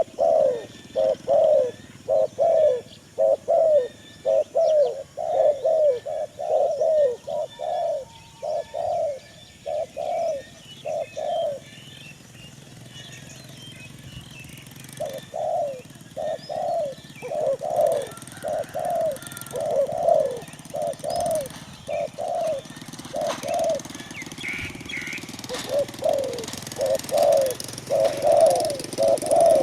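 Pigeon cooing: long runs of short, repeated coo notes that stop twice for a few seconds before starting again. Faint high chirps from small birds sit behind them.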